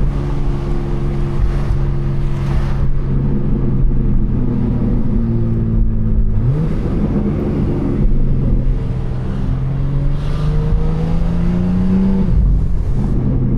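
BMW M4 Competition's twin-turbo inline-six running at a cruise under road rumble, its pitch slowly sagging. About six and a half seconds in it jumps up sharply, typical of a downshift, then climbs steadily as the car accelerates before dropping again near the end.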